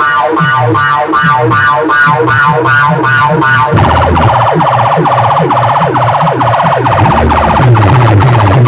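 Loud DJ sound-system effect of a siren-like electronic tone pulsing about four times a second over a bouncing bass line. About four seconds in it switches to a faster buzzing pattern with repeated falling sweeps.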